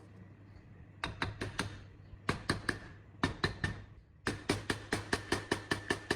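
Repeated hammer blows on a metal part, each strike ringing briefly. The strikes come in three short groups of about four, then settle into a steady run of about five a second.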